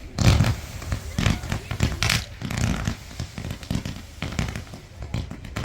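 Low-noise fireworks going off in a rapid, irregular run of small pops and crackles.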